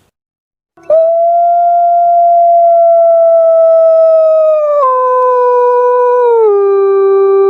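Puter pelung (ringneck dove) giving one long, drawn-out howl-like coo that starts about a second in and holds a steady pitch. It drops lower in two distinct steps, about five seconds in and again near the end. This is the unusual call the owner calls strange and frightening.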